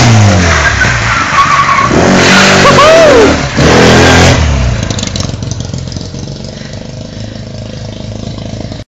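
Classic Mini's 1380 A-series engine revving hard, the revs dropping and then climbing again, with tyres squealing in short bursts. A little past the middle the engine sound falls to a lower, steadier level, and it cuts off suddenly just before the end.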